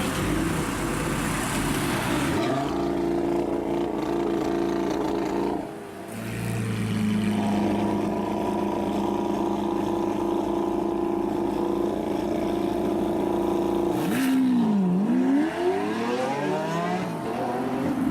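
Sports car engine revving and running under load: the pitch climbs about two seconds in and holds steady, drops briefly near six seconds, holds again, then falls sharply and climbs back up near the end.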